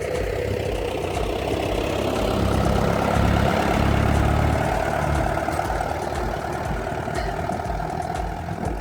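Old Kubota tractor engine running steadily, swelling louder for a couple of seconds in the middle and then easing back.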